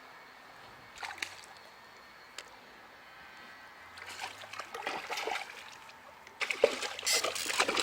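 Water splashing and sloshing in irregular bursts, faint at first and louder in the last second or so.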